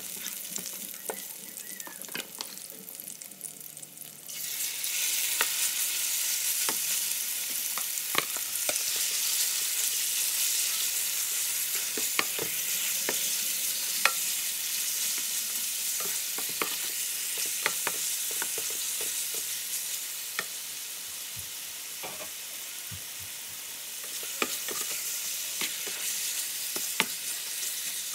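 Garlic frying in oil in an electric skillet, the plastic slotted spatula scraping and tapping the pan. About four seconds in, marinated chicken pieces go into the hot oil and a loud, steady sizzle takes over, with the spatula tapping and scraping as the chicken is stirred.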